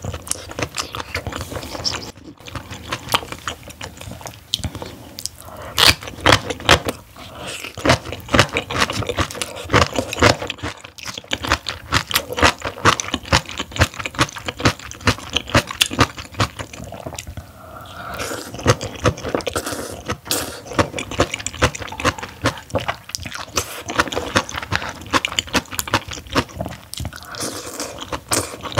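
Close-miked eating: steady wet chewing of seaweed-and-oyster knife-cut noodles and cabbage kimchi, a dense run of quick mouth clicks and crunches with no pause.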